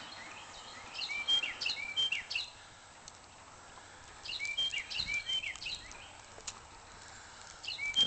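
A songbird singing outdoors: two bursts of a quickly repeated short phrase of chirping notes, about a second in and again around four and a half seconds in, over a faint steady hiss.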